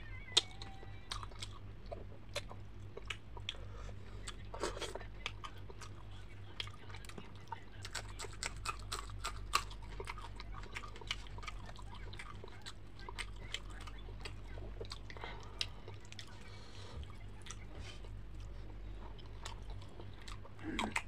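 Close-up chewing and crunching of crisp fried fish eaten by hand, with many small sharp crackles and wet mouth clicks throughout. A steady low hum runs underneath.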